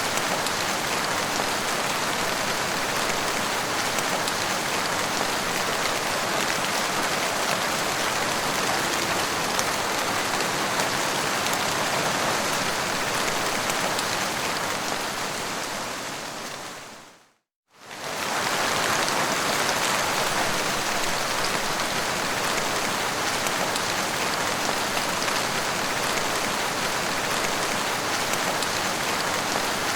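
Steady, dense rain falling and pattering on surfaces. Just past the middle it fades out to silence for about a second, then comes back at full level.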